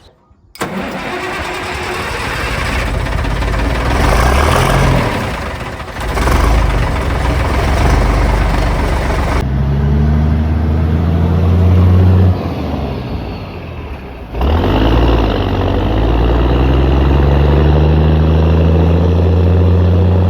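Foden lorry's diesel engine running loud through a new straight-through stainless exhaust. It comes in suddenly and pulls hard, its pitch rising as it accelerates. It eases off briefly about two-thirds through, then pulls again with a steadily rising pitch.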